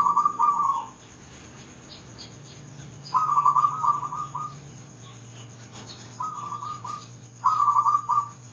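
Zebra dove cooing in short, rapid trilled phrases: one right at the start, one about three seconds in, and two close together near the end.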